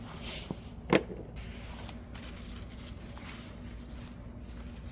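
Bush bean plants rustling as they are handled, with one sharp snap about a second in.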